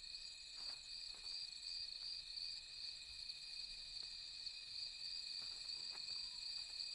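Faint night-time chorus of crickets trilling steadily, a constant high buzz at a few set pitches, with a few faint clicks.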